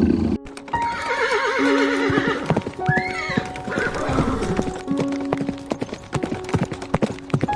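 Horse whinnying, with a quavering neigh about a second in, over quick clip-clop of hooves. Background music with held notes plays underneath.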